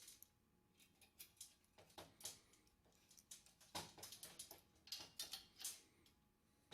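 Faint, irregular clicks of needle-nose pliers and small metal parts while the creaser spring is taken out of a Columbia automatic drywall taper.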